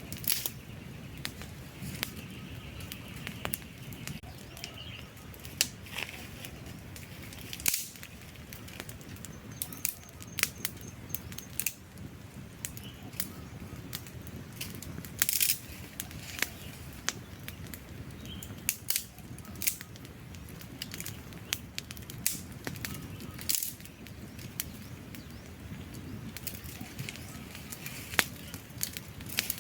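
Wood fire burning: irregular sharp pops and snaps over a steady low rush of flames.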